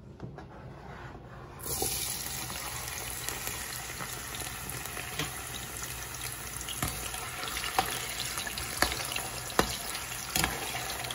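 Cubed potatoes frying in hot oil in a pan: a steady sizzle that starts suddenly about two seconds in, with a few sharp clicks through it.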